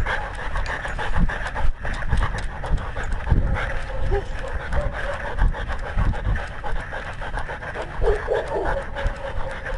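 A dog panting steadily right at the microphone, over low thumps and rubbing from the collar-mounted camera jostling as it walks.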